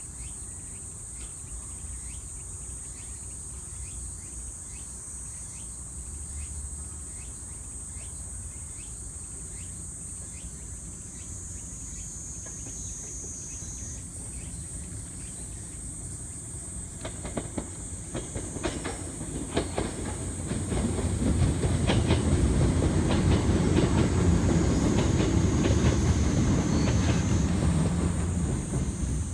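Sanyo Electric Railway 3100 series electric train approaching and running past: wheel clacks over the rail joints start about halfway through and build into a loud, steady rumble, easing a little near the end. Cicadas buzz steadily at a high pitch in the background.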